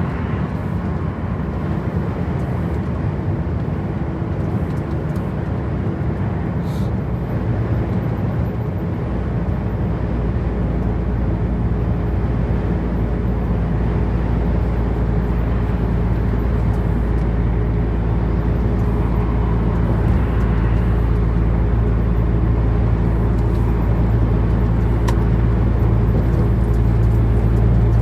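Truck engine and road noise while driving: a steady drone that grows slowly louder, with a deeper, steadier engine hum coming in about a third of the way through.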